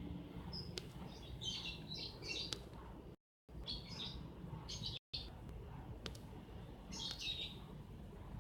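Small birds chirping in three short clusters of high notes over a low steady background hum, with the audio cutting out briefly twice.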